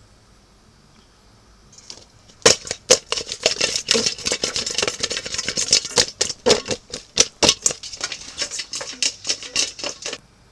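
Rapid, irregular rattling and clattering, starting about two seconds in and stopping shortly before the end.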